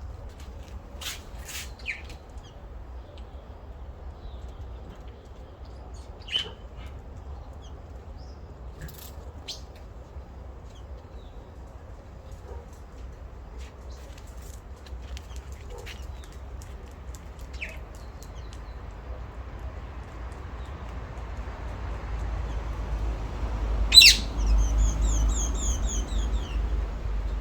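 Small birds chirping in short, scattered calls over a low background rumble. Near the end comes a sharp click, followed by a quick run of repeated high notes lasting about two seconds.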